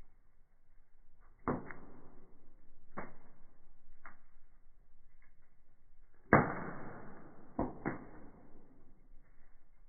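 Firewood burning in a fireplace, cracking and popping: about six sharp pops, each with a short trailing crackle, the loudest about six seconds in and followed by a quick double pop.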